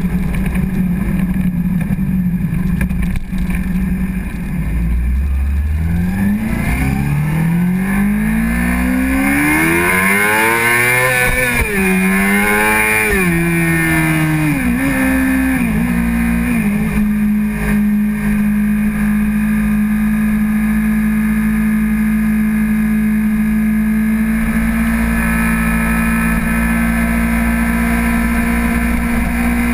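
Honda CBR600RR's inline-four engine under way: it runs at a steady note, then revs up in rising sweeps about six seconds in, drops back in several quick steps a few seconds later, and settles into a steady cruise, over a low rush of wind.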